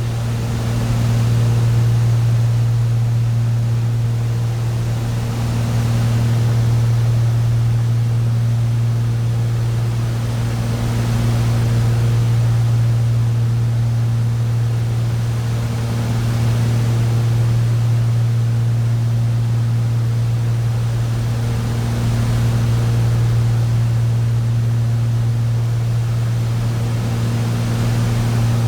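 Boat's right-hand engine running with a steady low hum that swells and fades about every five seconds: a cyclic lean condition, which the owner takes for an anomaly between the left and right engines.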